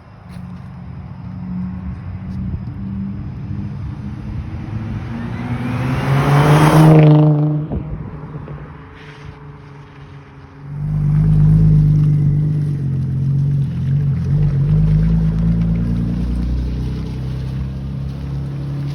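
Audi B5 S4's 2.7-litre twin-turbo V6 running through an XS-Power exhaust with 200-cell catalytic converters. The engine note climbs in pitch under acceleration to a loud peak about seven seconds in, falls away sharply off the throttle, then comes back loud and steady, deep and droning, from about eleven seconds in.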